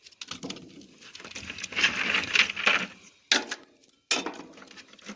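Lumps of coal clattering and knocking as they are handled and tossed into a wood stove, with one sharp knock a little after three seconds in.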